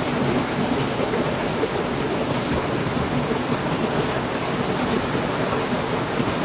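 Heavy rain falling steadily, an even hiss with no separate drops or breaks.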